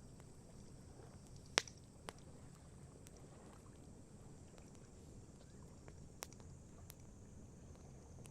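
Wood campfire crackling: four sharp pops from the burning wood over a low steady background, the first, about a second and a half in, much the loudest.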